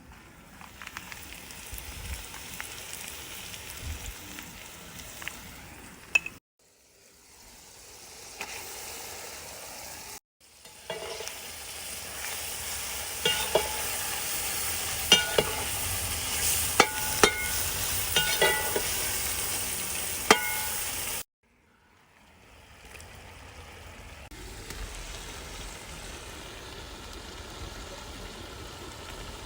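Noodles with chicken frying in a kazan: a steady sizzle, loudest in the middle, with a metal utensil clinking against the pot as the food is stirred. The sound stops dead for a moment three times.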